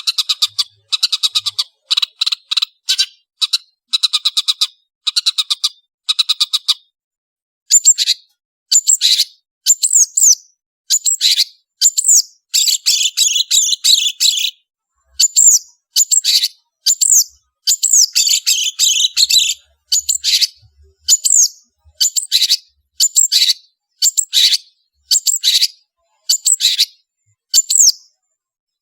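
Long-tailed shrike (cendet) singing. For about the first seven seconds it gives a rapid, dry, croaking rattle. Then comes a string of loud, high, sweeping notes about once a second, some drawn out into harsh, scratchy phrases.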